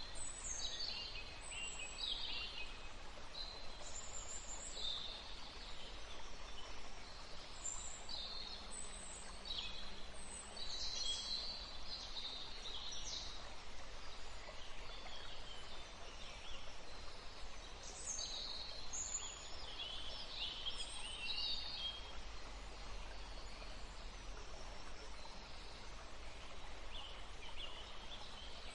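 Small songbirds chirping and calling in a forest: many short, high chirps and quick falling notes, busiest in the middle and sparser near the end, over a steady background hiss.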